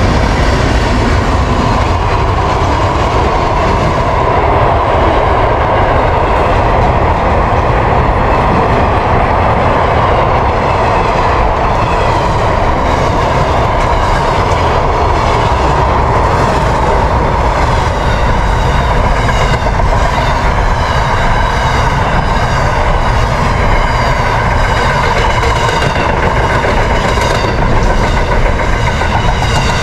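A train passing at close range, its wheels clicking over the rail joints in a steady, repeating rhythm under a continuous rumble of wheels on rail.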